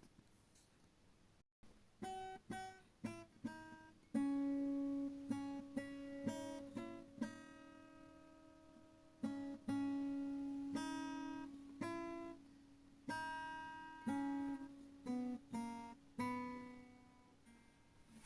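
Background music: an acoustic guitar playing picked notes and chords, each note ringing and fading. There is a brief dropout about a second and a half in.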